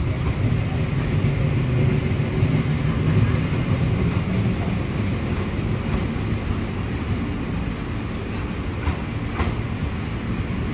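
Passenger train coaches rolling over the rails as the train pulls away, a steady low rumble of wheels on track that slowly fades as the last coach recedes. Two light clicks come near the end.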